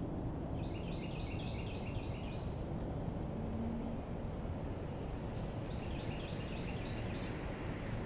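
Steady low outdoor background noise, with a bird calling two short runs of quickly repeated high notes, one about a second in and another past the middle.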